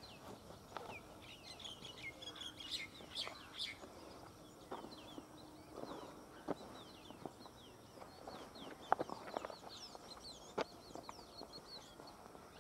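Small birds chirping in quick falling notes, in bursts, with a few scattered light knocks underneath.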